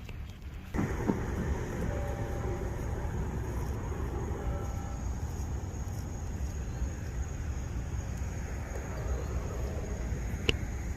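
Steady low vehicle rumble that starts abruptly about a second in, with a sharp click near the end.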